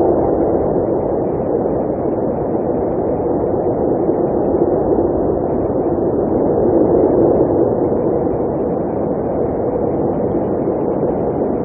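Blizzard wind blowing steadily: a dense, even rush with little hiss on top and no gusts or breaks.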